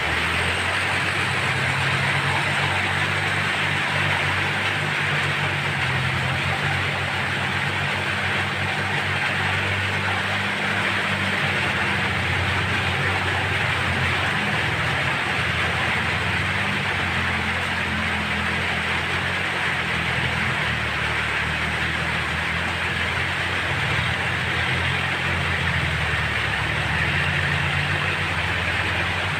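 Kubota tractor's diesel engine running steadily under the steady hiss of heavy rain.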